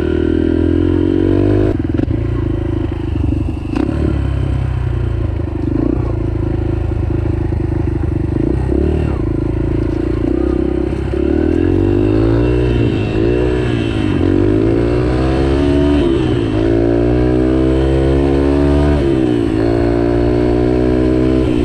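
Yamaha TT-R125 dirt bike's single-cylinder four-stroke engine running under way on a trail. It holds fairly even at first, then in the second half rises in pitch and drops back several times as the rider accelerates and shifts, with scattered knocks and clatter from the trail.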